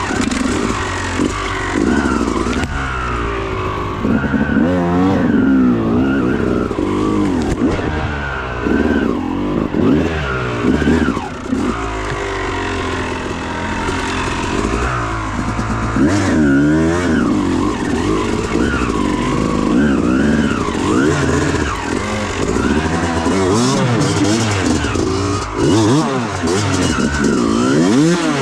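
Dirt bike engine revving up and down as it is ridden, its pitch rising and falling every second or two.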